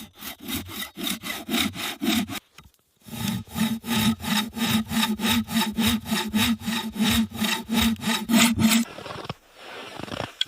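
Hand saw cutting through a wooden shelter pole in quick, even back-and-forth strokes, with a short pause about two and a half seconds in and the sawing stopping near the end.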